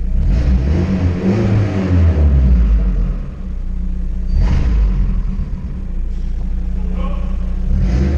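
Turbocharged Honda Civic Si engine making over 500 hp, running and being revved. There is a rise in revs in the first couple of seconds and two short, sharp bursts, one about halfway through and one near the end.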